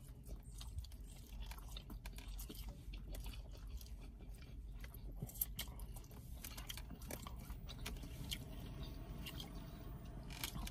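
Close-miked eating sounds: chewing with soft crunches and many small, irregular mouth clicks, faint.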